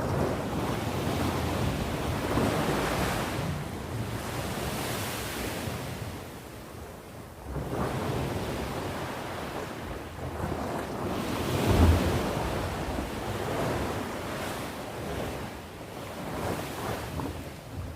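Ocean waves breaking and washing onto the shore. They come in surges that build and ease every few seconds, and the strongest lands a little past the middle with a low rumble.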